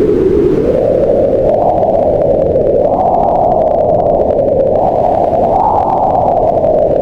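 Wind blowing in gusts: a steady rush whose pitch slowly rises and falls as the gusts swell, highest about three and six seconds in.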